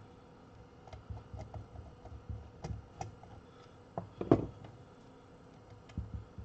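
Scattered small clicks and taps of wires and tools being handled while wiring a car amplifier's power terminals, with one louder knock a little past four seconds in.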